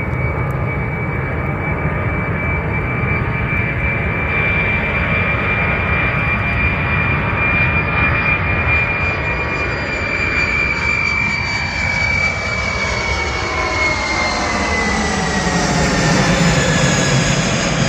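Boeing 747's four turbofan engines at takeoff thrust: a steady jet roar with a high whine that slowly drops in pitch over the last several seconds, growing a little louder near the end.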